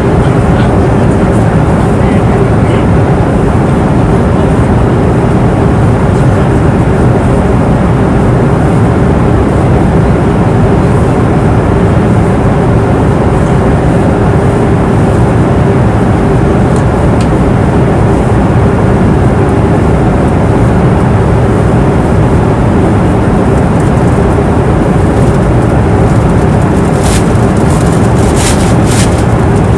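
Airliner cabin noise in flight: a loud, steady, even rush of engine and airflow noise with a faint steady hum in it, and a few light clicks near the end.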